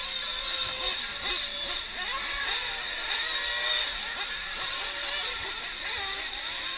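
Several 1/8-scale nitro RC truck engines (small two-stroke glow engines) screaming around the track together, their pitch rising and falling as the trucks accelerate and back off.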